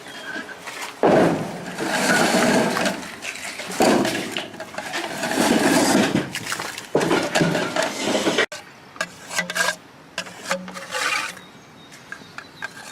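Fireworks mortar racks being moved and set into place: repeated loud scraping and knocking handling noise. After a cut near the end it turns to quieter scattered clicks and taps.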